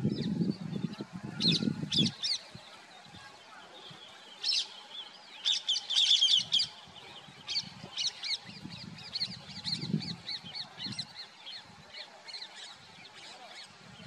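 Small birds chirping: short high notes, a dense flurry about six seconds in, then an even run of calls about twice a second. Low, muffled sounds come in the first two seconds and again around ten seconds in.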